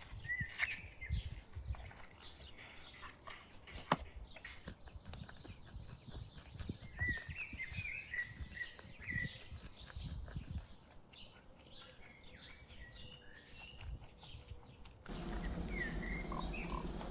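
Small birds chirping outdoors in short, quick calls, with scattered clicks and low knocks and one sharp click about four seconds in. Near the end the background turns louder and denser.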